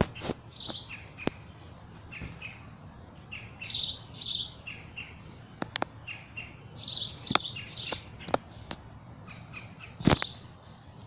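A bird chirping repeatedly in short clusters of high notes. Several sharp clicks or knocks come in between, the loudest about ten seconds in.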